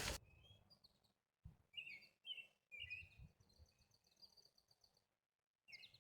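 Faint songbird chirps, a few short notes followed by a thin high trill, over otherwise near silence.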